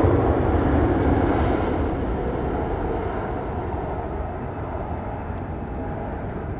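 Jet airliner's engines rumbling as it passes and moves away, the noise fading steadily and growing duller.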